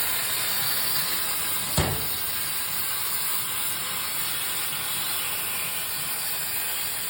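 Gweike 6 kW fiber laser cutting machine cutting 14 mm steel plate: a steady hiss of the assist-gas jet and cut, with one sharp click about two seconds in.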